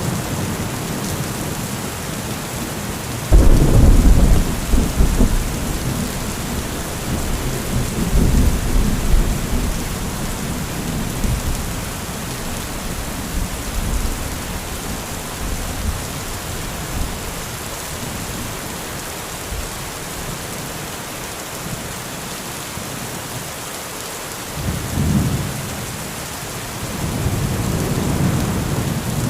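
Heavy rain falling steadily with thunder. A sudden loud thunderclap about three seconds in rumbles on for several seconds, and fainter rolls of thunder come near the end.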